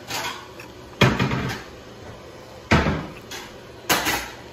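Crunching of crispy breaded fried fish being bitten and chewed close to the microphone: three loud, sharp crunches about a second apart, with a softer one at the start.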